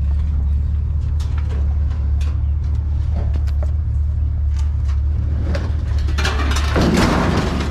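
A discarded clothes dryer being shaken and handled, with scattered knocks and rattles of loose metal and debris inside it, and a louder scraping rattle lasting about a second near the end. A vehicle engine idles steadily underneath.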